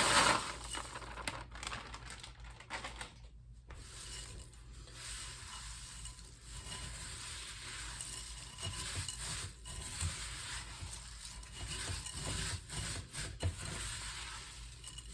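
Dry chow mein noodles rustling and scraping in a large bowl as a spatula folds them through melted butterscotch and peanut butter, with irregular rubbing strokes. A short rush near the start as the last noodles pour in from the bag.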